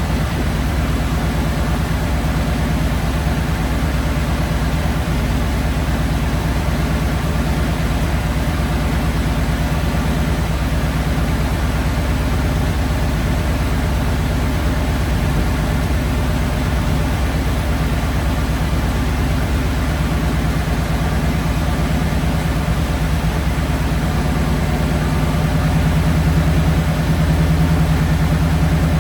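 Flathead Ford engine with twin Holley 94 carburetors idling steadily during carburetor balancing and idle-screw adjustment, growing a little louder near the end.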